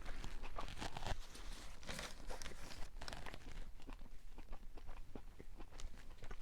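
Chewing a crispy fried chicken sandwich: a steady run of small, irregular crunching clicks from the mouth.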